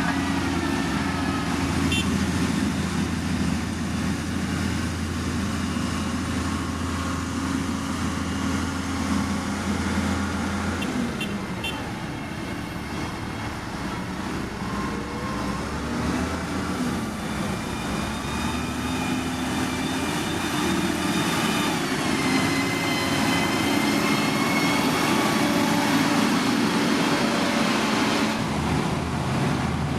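Heavy diesel construction machinery running. The low engine note changes about 11 seconds in, and the engine pitch rises around 22 seconds in.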